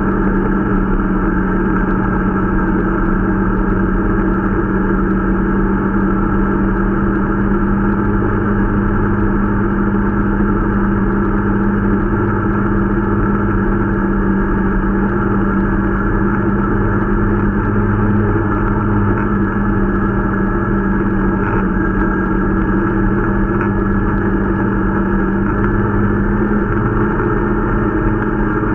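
Irbis Dingo T125 snowmobile's 125 cc engine running at a steady, unchanging pitch while the sled is being broken in.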